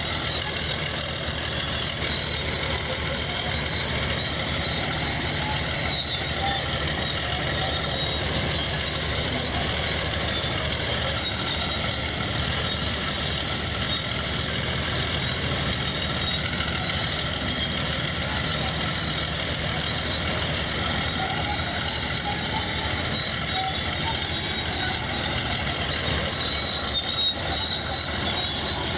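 Heavy earthmoving machine running steadily under a dense low rumble, with a high whine held at one pitch.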